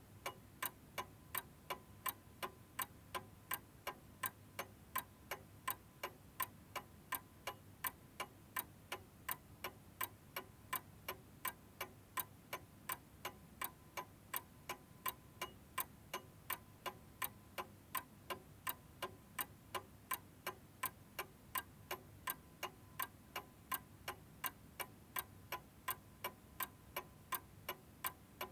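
A chiming clock ticking steadily, about two sharp ticks a second, with no chime.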